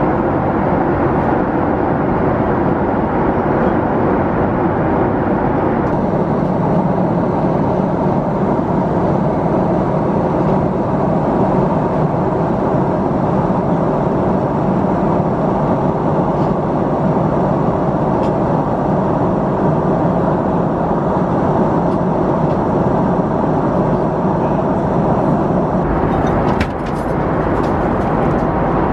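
Steady cabin noise of a Boeing 767-400ER airliner in flight: the even rush of engines and airflow. A faint steady hum fades after the first few seconds, and a few light clicks come with a brief dip near the end.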